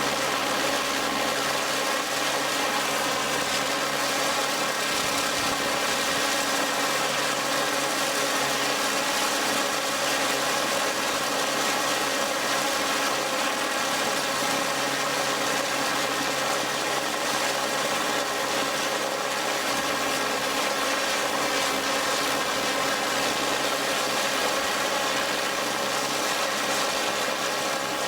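Prototype TR Mk I turborocket engine running steadily on fuel: a constant loud rushing roar with several steady tones in it, holding one pitch and level throughout.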